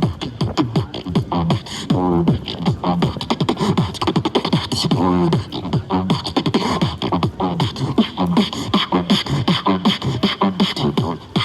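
Beatboxing: a fast, unbroken run of mouth percussion, with sharp clicks and snare-like hits, woven with hummed vocal bass notes that slide up and down in pitch.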